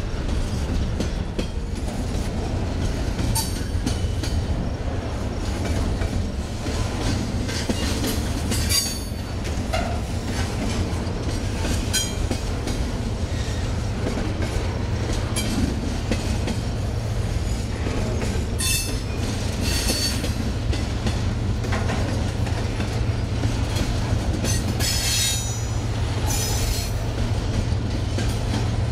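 Double-stack intermodal container train of articulated well cars rolling past: a steady, loud low rumble of wheels on rail. Short high-pitched wheel squeals break through several times and are strongest near the end.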